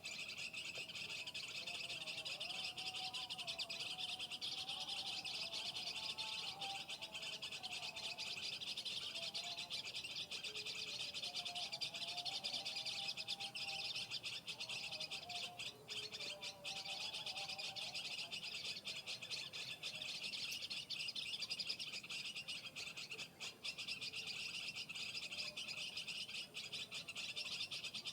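Birds calling and chirping over a steady, dense high-pitched hiss, with wavering lower calls coming and going.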